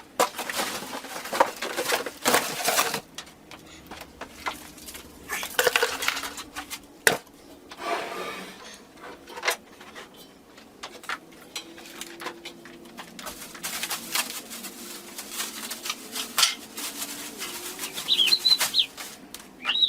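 Irregular clattering, knocking and rustling of objects being handled, with a brief high squeak near the end.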